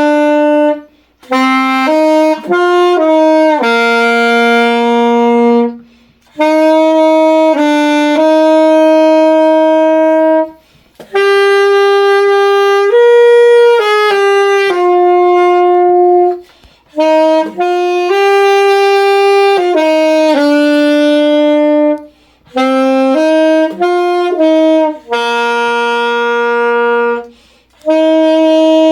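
A melody played solo on a wind instrument: one line of steady held notes in phrases, with short breaks between phrases.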